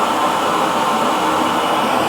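Hair dryer running steadily on one setting: an even blowing whir.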